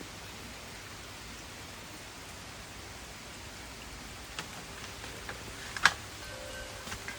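Steady hiss of rain falling during a thunderstorm. Over the last few seconds wind chimes start to be struck: a few light clicks, one sharp strike about six seconds in, then ringing tones that hold.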